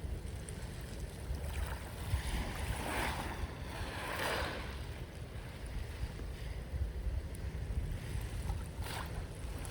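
Sea waves washing on a shore, with swells of surf about three and four seconds in and a shorter one near the end, over a steady low rumble of wind on the microphone.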